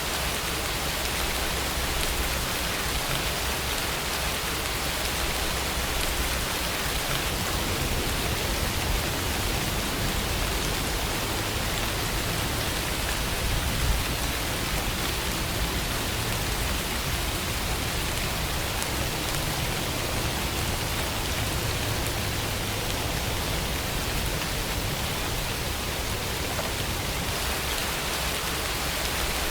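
Steady rainfall, an even hiss of rain falling on a surface, with a deeper low rumble under it.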